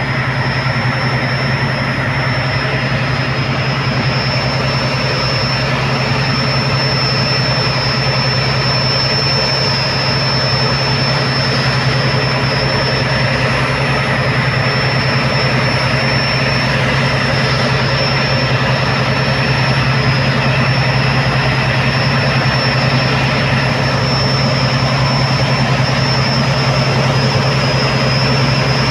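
Tugboat's diesel engine running steadily under towing load, a loud constant low drone with a thin steady high whine above it.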